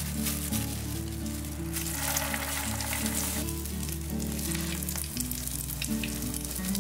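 Food frying in hot oil in a pan, a steady sizzle with fine crackles, under background music.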